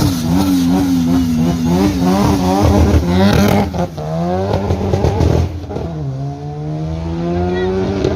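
A performance car engine revs hard with wavering pitch for a few seconds. It then accelerates flat out, with its pitch climbing, a gear change about five and a half seconds in, and the pitch climbing again, as in a drag-strip launch.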